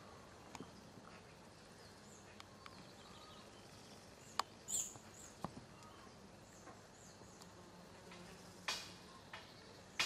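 Faint bird chirps over a quiet outdoor background, one chirp louder a little after the middle, with a few sharp clicks scattered through it.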